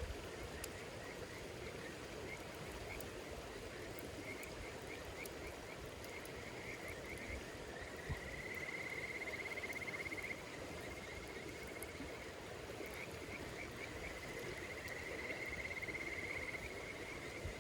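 A calling insect repeating short chirps, then two long rapid trills of about two seconds each, over a steady low hiss with faint crackles from a campfire.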